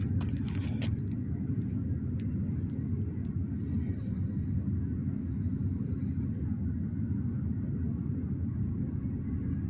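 Distant double-stack container freight train rolling past, a steady low sound with no breaks. A few short sharp noises sound in the first second.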